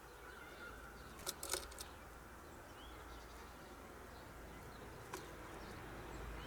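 Blue tit pecking at a sunflower seed: a quick cluster of about four sharp taps a little over a second in, and a single tap near the end, over faint outdoor background noise.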